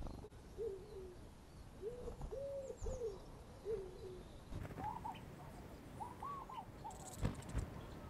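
A bird giving a series of short, low hooting or cooing notes, then a run of higher hooting notes about five seconds in. Two sharp knocks near the end.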